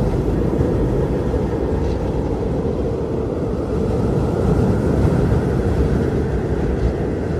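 Strong blizzard wind blowing in a steady low roar, with a faint higher whistle that swells a little past the middle.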